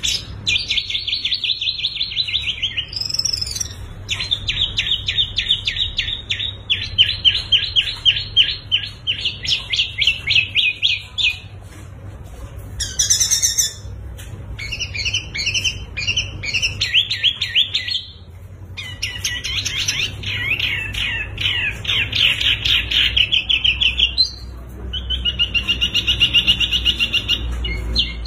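Songbirds singing long runs of rapid, evenly repeated chirping trills, with a few higher, faster phrases between them and short pauses now and then. A steady low hum lies underneath.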